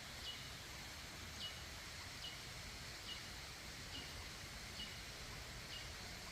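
A bird calling over and over, a short high note that slides down and ends on a brief level tone, about once a second, faint against a low rumble.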